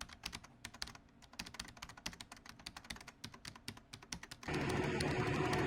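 Quick, irregular clicks of keyboard typing, several a second. About four and a half seconds in they stop and a steady noise takes over.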